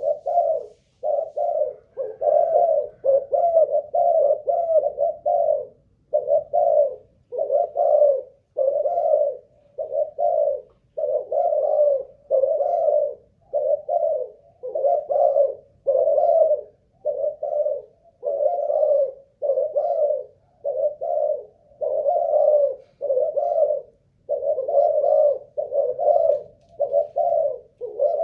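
Spotted dove (cu gáy, Malaysian line) cooing over and over, one coo phrase after another about once a second with only short breaks. It is a sustained run of calling, the stamina a lure dove is tested for.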